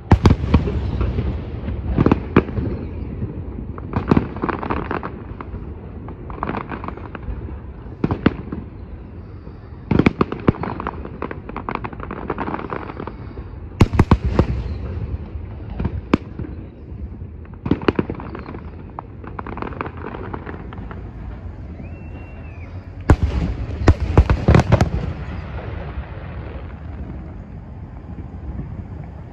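Aerial firework shells bursting in an irregular series of sharp bangs, each trailing off in a rumbling echo, with a dense cluster of bangs a few seconds before the end.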